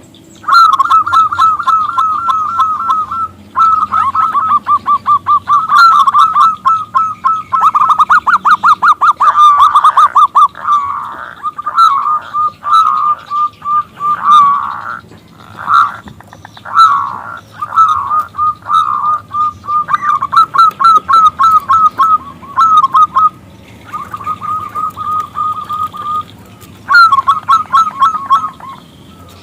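Zebra dove (perkutut) calling in fast runs of repeated trilled notes, broken by a few short pauses. It is a lure call of a female summoning a male to answer.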